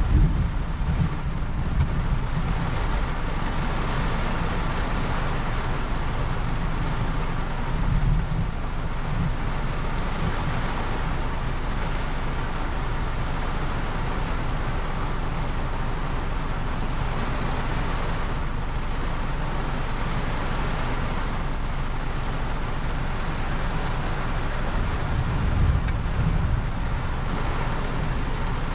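Steady rain falling, an even hiss, with a few brief low rumbles swelling up: at the start, about eight seconds in and near the end.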